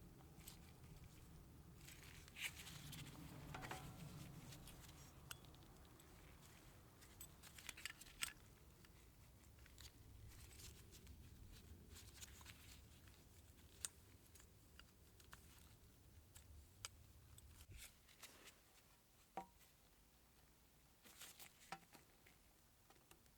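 Faint, scattered clicks and light rustling of small parts or tools being handled, over a quiet low hum that stops near the end.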